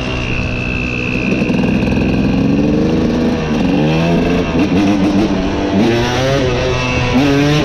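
Vehicle engine running and being revved, its pitch rising and falling several times from about three seconds in.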